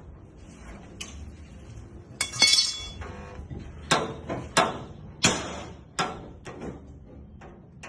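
Hammer striking sheet metal in panel-beating work: sharp metallic clinks and knocks at an uneven pace. The loudest, about two seconds in, rings briefly; from about halfway on the strikes come roughly every two-thirds of a second.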